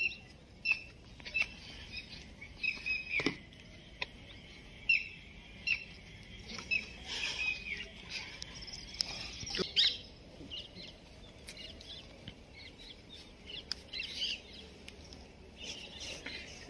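Small birds chirping over and over in short, high calls, with a few sharp clicks and a spell of rustling noise around the middle.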